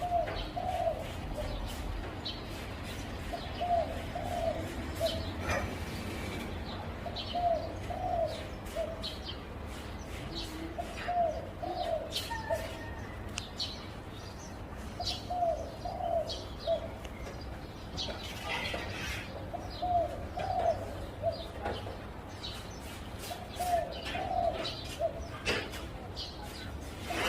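Zebra dove cooing: a short rolling phrase of several quick coo notes, repeated about every four seconds. Faint chirps of other small birds sound between the phrases.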